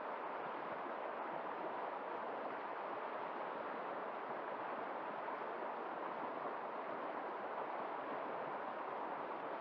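Woodland stream flowing over rocks, a steady even rush of water.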